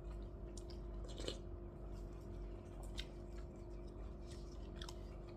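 Quiet eating sounds: chewing with a few short, sharp clicks of utensils, over a steady low electrical hum.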